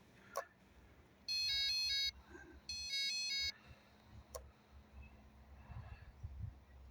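Radio-control transmitter sounding its electronic warning: two bursts of rapid stepped beeps, each under a second, about half a second apart. It is the alarm the sailor excuses, his transmitter getting no telemetry from the micro yacht's receiver. A single click follows.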